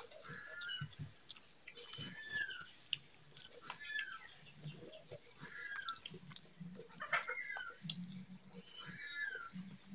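Close-up chewing and wet mouth sounds of people eating rice and chicken by hand. A bird's short arched chirp repeats about every second and a half.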